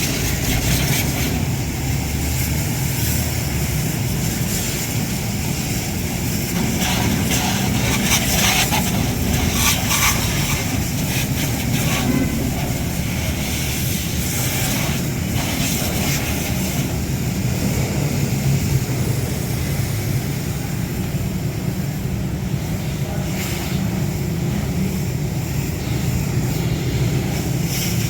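Loud, steady machine noise with a low rumble under a broad hiss that swells now and then.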